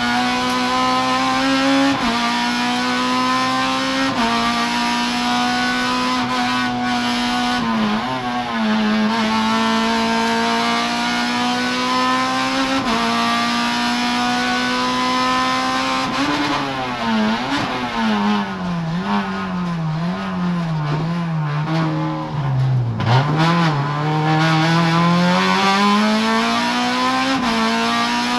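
Honda Civic Type R EP3's 2.0-litre VTEC four-cylinder at racing speed, heard from inside the stripped cabin: the revs climb high and drop sharply at each quick upshift, several times. Past the middle the revs fall and waver as the car slows, then climb hard again near the end.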